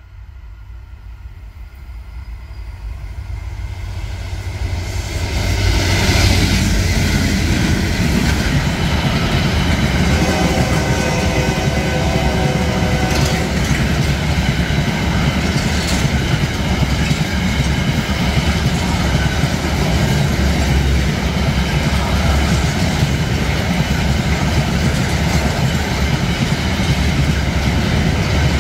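A diesel freight locomotive approaching and passing, growing louder over the first six seconds. After it, a long train of tank wagons rolls steadily past on the rails with a continuous rumble and a few sharp wheel clicks.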